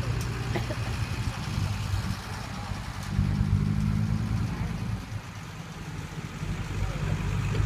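Heavy diesel engine of an earthmoving machine running, growing louder about three seconds in, easing off around five seconds, then building again near the end.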